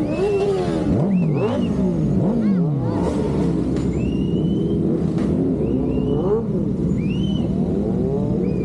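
Motor vehicle engines in road traffic, their pitch rising and falling as they rev and pass. Short high whines rise and fall over the top every second or so.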